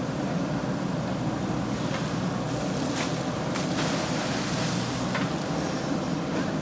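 Diesel engine of a JCB 3DX backhoe loader running steadily under work, with a couple of brief knocks about halfway through.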